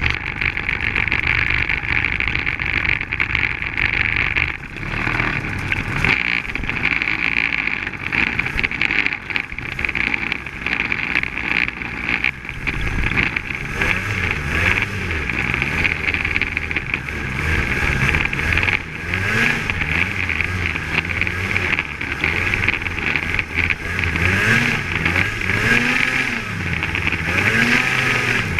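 Polaris Axys 800 snowmobile's two-stroke twin engine running under way, its pitch rising and falling again and again in the second half as the throttle is worked. A steady high hiss runs underneath.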